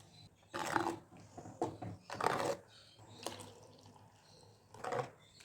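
Water splashing and pouring in several short bursts, as when food or a pot is rinsed.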